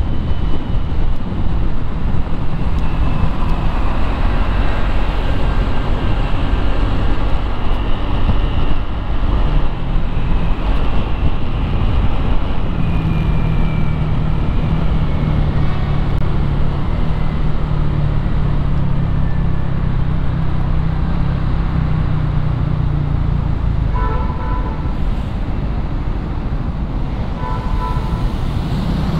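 Motorcycle engine running steadily in street traffic. Two short horn beeps come near the end.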